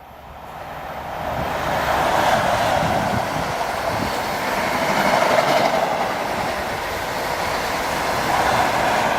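A train passing close by on the main line: the rumble of wheels on rail builds over the first two seconds and then holds steady and loud.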